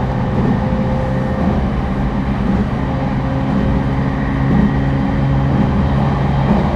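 Inside a JR East E231 series 1000 refurbished commuter train car running at speed: the steady rumble of the running train with a steady low electric hum that holds one pitch.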